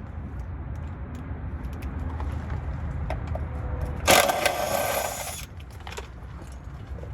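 A cordless impact wrench runs in one burst of about a second and a half just past the middle, while a transmission is unbolted. Scattered small clicks of tools on metal and a steady low rumble sit under it.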